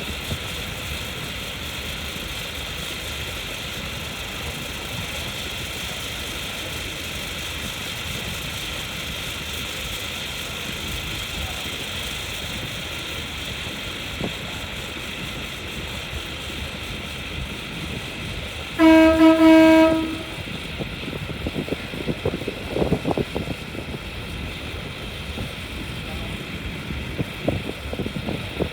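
Steady engine drone of a river car ferry with a high hiss over it. About two-thirds of the way in, a horn sounds one loud, steady blast lasting just over a second, followed by scattered knocks and clatter.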